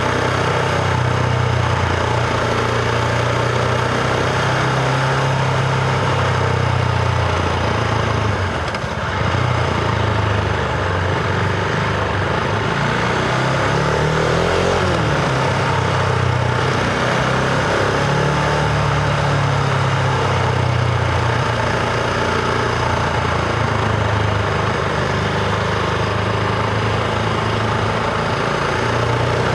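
Husqvarna Vitpilen 701's single-cylinder engine running under way. It pulls at a fairly steady pitch, with a brief dip in level about nine seconds in and the pitch shifting up and down around the middle.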